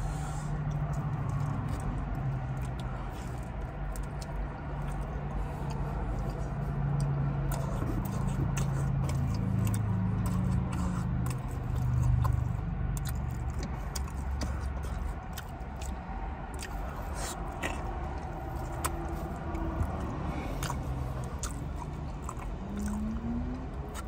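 Close-up chewing and biting of Chicago-style stuffed pizza, with wet mouth sounds and scattered small clicks.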